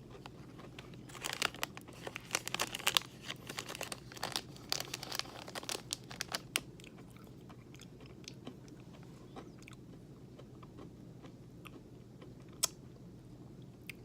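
Person chewing a crunchy oat granola bar: a run of crisp crunches for about five seconds, thinning out to a few scattered crunches and one sharp crack near the end.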